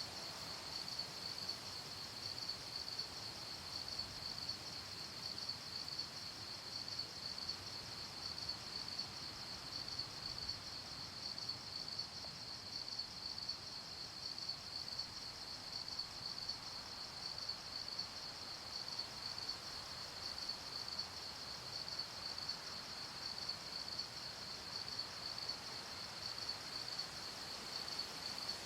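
Crickets chirping at night in a steady, evenly pulsing high chorus, over a faint background hiss.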